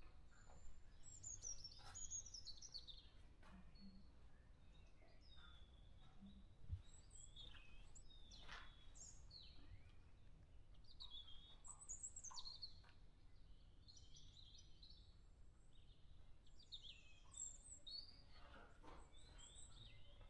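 Faint birdsong: several birds chirping, with short high calls scattered throughout, many of them sliding down in pitch.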